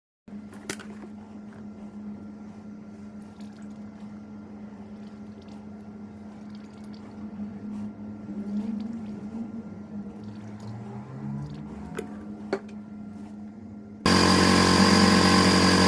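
SYM Joymax Z+ 300 scooter's single-cylinder engine idling with a steady low hum and a few light clicks, run after a thermostat replacement. Near the end the sound jumps suddenly much louder.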